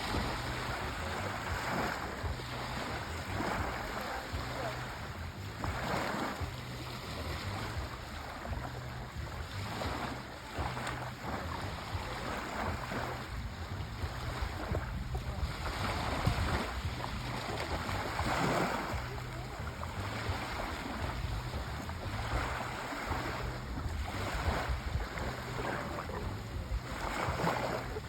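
Sea waves breaking and washing in, a steady surf noise with a low rumble that swells and fades every few seconds.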